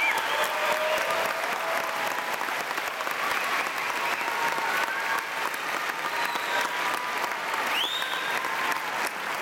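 Audience applauding steadily, with a brief rising whistle near the end.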